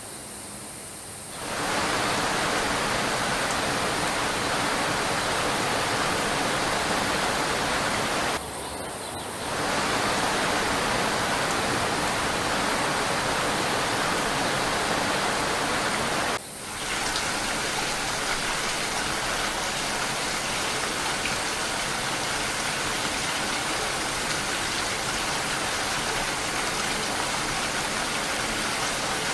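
Steady, dense hiss of heavy rain. The sound is softer for the first second or so, then jumps up. It drops out abruptly for a moment about a third of the way in and again just past halfway, as at a splice in the recording.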